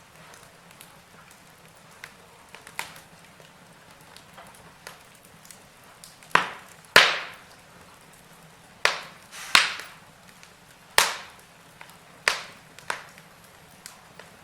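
Wood fire in a fireplace crackling, with scattered sharp pops over a faint steady hiss; the pops come few and faint at first, then loud and close together in the second half.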